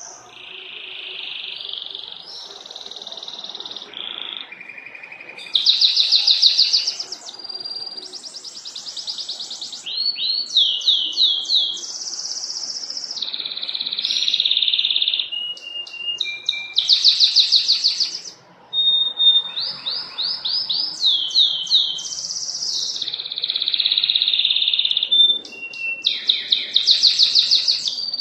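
Domestic canary singing a long, continuous song of rolling trills. It moves from one phrase of rapidly repeated notes to the next every second or two, some phrases high and buzzy, others falling glides, with a brief gap about 18 s in.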